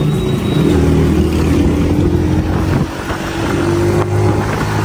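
Honda CG 125's single-cylinder four-stroke engine running under throttle on the move, its note climbing gradually over the first couple of seconds, with wind noise on the microphone.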